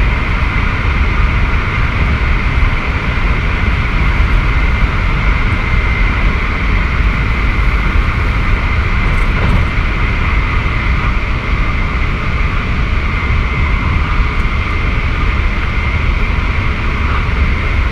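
Keikyu 1000-series electric train running at steady speed: a continuous low rumble of wheels on rail with a steady high whine held throughout.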